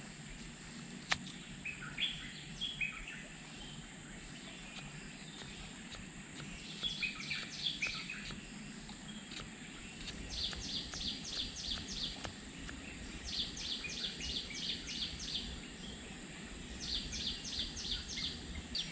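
Riverside ambience: the steady rush of a flowing river with a high steady insect drone, and a bird calling in repeated short trills of rapid high notes, several times in the second half. A single sharp click comes about a second in.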